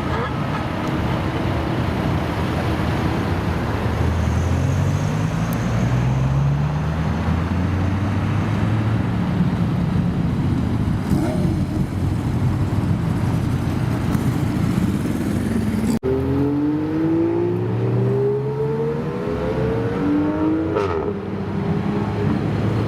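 Car engines accelerating hard, their pitch rising in repeated steps as they shift up through the gears. There is an abrupt cut about two-thirds through, after which another car accelerates with sharply rising pitch.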